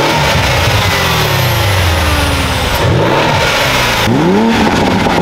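Sports car engines running, with several quick revs that climb and drop back in pitch.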